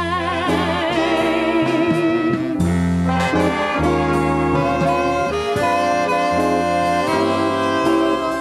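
Swing band music: saxophones and brass playing together over steady bass notes.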